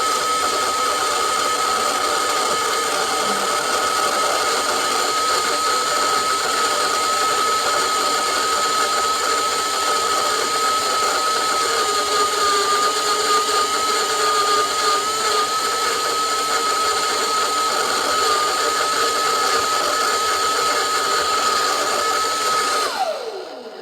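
Roborock Dyad Pro wet-and-dry cordless vacuum's motor running steadily with a high whine, then switched off near the end, the whine sliding down in pitch as the motor spins down.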